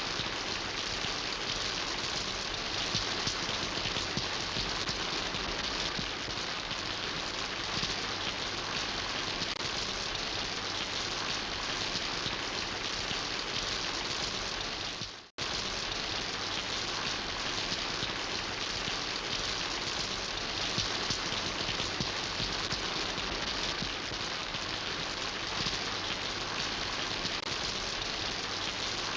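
Steady, dense rainfall. About halfway through it fades out to near silence for a moment, then cuts straight back in.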